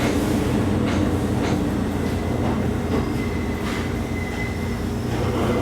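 Local train on the Kakogawa Line heard from inside the carriage while running: a steady low drone with wheel clicks over the rail joints and a faint thin squeal from the wheels in the middle.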